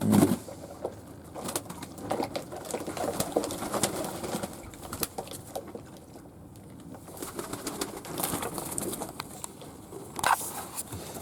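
Fantail doves cooing, with many scattered light clicks and taps; a short louder sound right at the start and another about ten seconds in.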